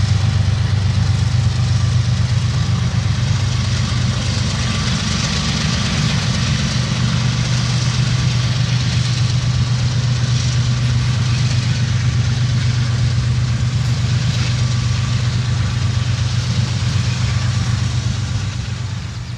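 Diesel freight train passing: a steady low drone of the locomotives' engines over the rolling noise of the tank cars on the rails.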